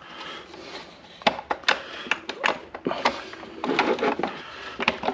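Handling of a new gas chainsaw's plastic housing: a quick run of sharp clicks and knocks with some rubbing and rustling, as parts are worked loose by hand.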